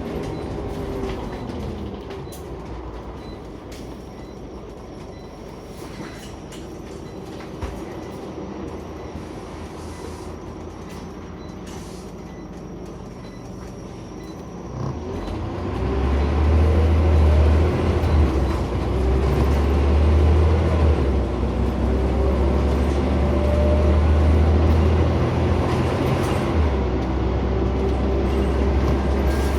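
Scania CN94UB Omnicity bus engine heard from on board. It runs quietly at low revs for about the first half, then gets much louder as the bus pulls away and accelerates. The pitch rises and drops back twice with gear changes.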